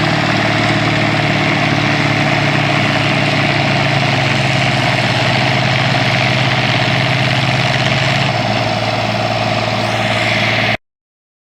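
An engine running steadily at idle, easing slightly about eight seconds in; the sound then cuts off abruptly near the end.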